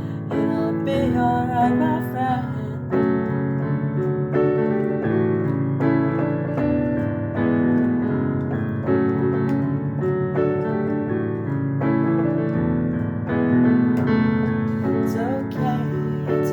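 Instrumental passage of a song: a keyboard plays sustained chords that change every second or two, with no vocals.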